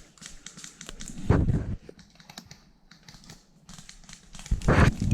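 Rustling and crinkling with scattered light clicks, and two louder low bumps, about a second in and again near the end.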